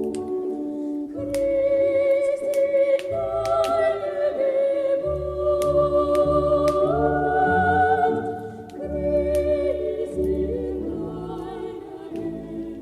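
A Christmas song sung by a choir, with long held notes over a low bass line. A few sharp clicks come through in the first half.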